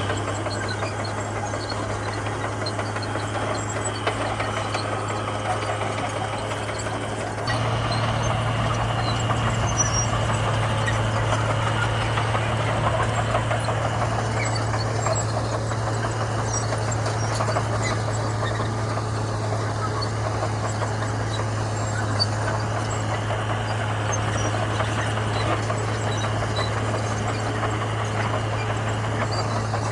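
Komatsu bulldozer's diesel engine running steadily while the dozer works gravel; about seven seconds in it gets louder and rougher, as under more load.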